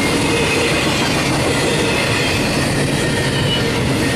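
Double-stack intermodal container train's well cars rolling steadily past on steel rail: a loud, continuous rumble and clatter of wheels, with a faint high wheel squeal over it.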